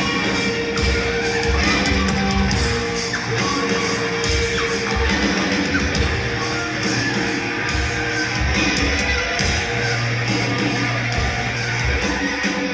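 Live punk-rock band playing loud in a concert hall: heavy distorted electric guitars, bass and drums pounding out a steady beat, with vocals, recorded from the audience.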